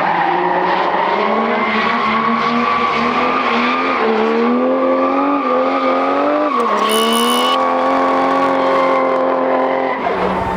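Mercedes-Benz OM606 straight-six turbo diesel in a BMW E28 drift car, held at high revs while the tyres squeal through a drift. The revs dip briefly about two-thirds of the way through, and they fall away near the end.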